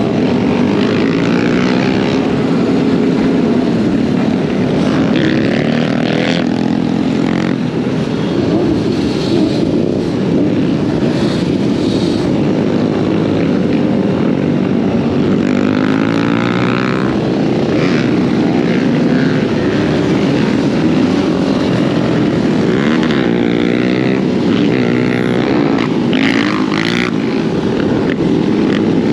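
Dirt bike engine revving up and down as the bike is ridden, over a steady rushing noise.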